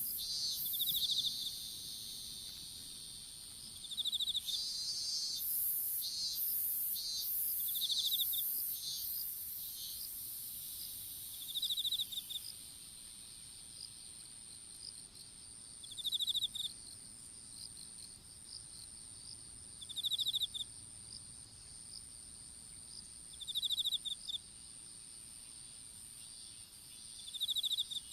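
Insects calling in a field: one keeps up a steady high trill, another gives a short, rapidly pulsed chirp about every four seconds, and a third pulses fast and high until about halfway through, then stops.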